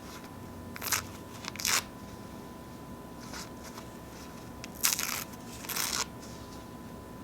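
Paper napkins being torn: four short rips, two close together about a second in and two more about five seconds in.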